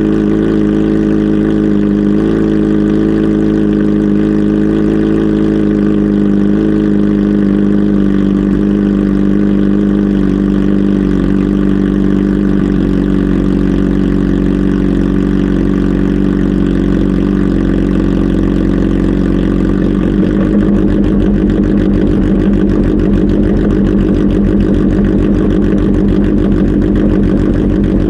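Kawasaki Z H2 SE motorcycle's supercharged inline-four engine running steadily, its sound turning rougher and less even about twenty seconds in.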